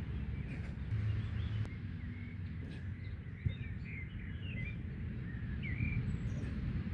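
Small birds chirping over a steady low outdoor rumble, with one sharp knock about three and a half seconds in.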